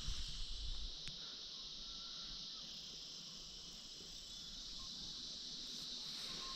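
A steady, high-pitched insect chorus, with a few low bumps in the first second.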